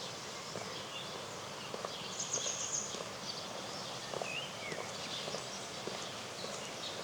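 Songbirds singing, with a high chirping trill about two seconds in and short whistled glides around the middle. Under them are a walker's steady footsteps and an even outdoor hush.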